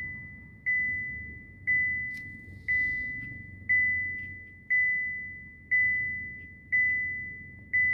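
A car's electronic warning chime dinging a single high note about once a second, each ding fading before the next, over a faint low rumble.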